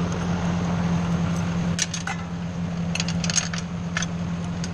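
Engine idling steadily, with a string of light metallic clinks and rattles about two seconds in and again from three to four and a half seconds in, as of small metal parts being handled.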